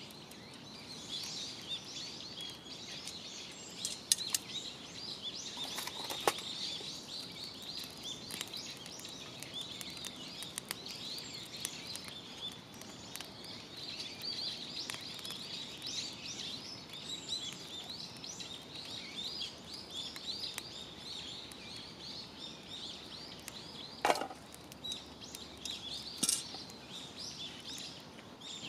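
Wild birds chirping and singing continuously, with a few sharp crackles from the wood fire, the loudest about four, six, twenty-four and twenty-six seconds in.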